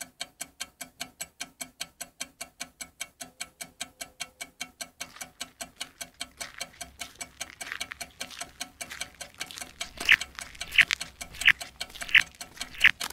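Experimental sound-collage track built from found sounds in Audacity: a fast, even ticking pulse over a faint low drone. About ten seconds in, louder sharp strikes join it, one every 0.7 seconds or so.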